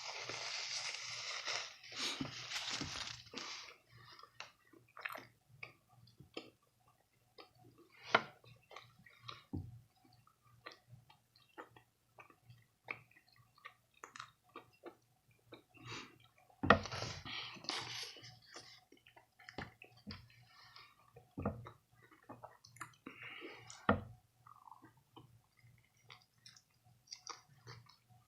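A person chewing food close to the microphone: wet mouth sounds, smacks and occasional crunches coming irregularly. A denser rustling noise fills the first few seconds, and a faint steady low hum runs underneath.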